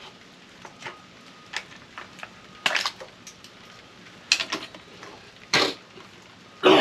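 Metal scrap clinking and knocking as it is handled, in a handful of separate sharp strikes spaced about a second apart, followed near the end by a loud cough.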